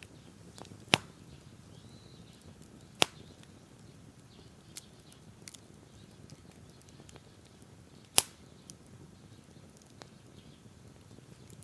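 Wood fire crackling: three loud, sharp pops (about a second in, at about three seconds, and at about eight seconds) with scattered smaller snaps between them.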